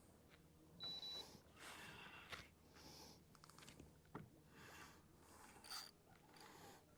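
Near silence: faint hiss with a few soft clicks and a brief high beep about a second in.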